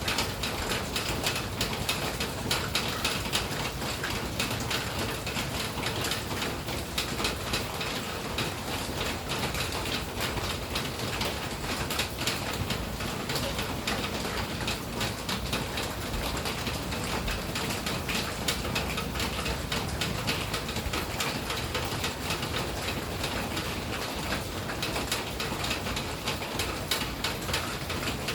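Steady rain falling, with dense small ticks of drops striking hard surfaces.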